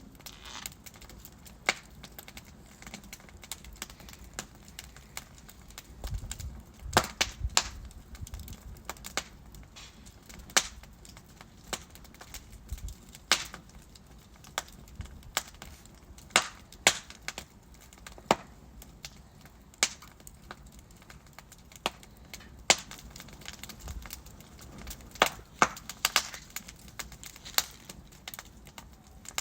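Wood fire crackling: burning logs give irregular sharp pops and snaps over a faint steady hiss, with small flurries of pops about a quarter of the way in and again near the end.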